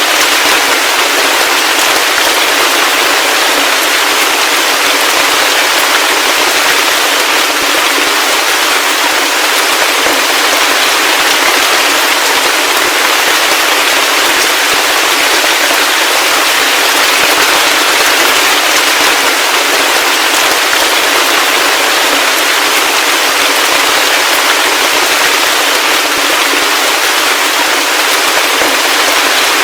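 Heavy rain falling steadily: a dense, even hiss of many drops that stays the same throughout.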